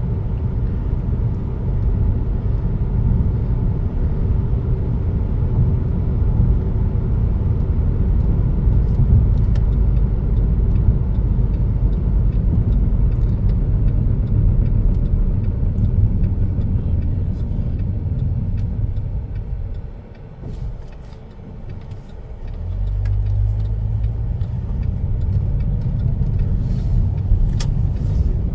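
Road noise inside a moving car: a steady low rumble of tyres and engine. About two-thirds of the way through it drops away for a couple of seconds as the car slows, likely for a stop sign, then the engine picks up again as the car pulls away.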